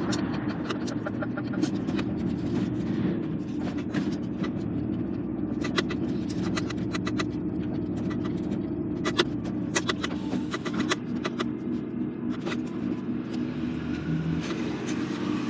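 Inside a lorry's cab: the diesel engine running with a steady low hum, with scattered short clicks and rattles.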